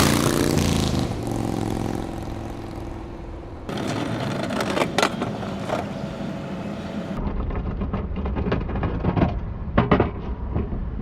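Vehicle engine running with a falling pitch that fades over the first few seconds. It then cuts abruptly to lower-level vehicle noise broken by several sharp knocks.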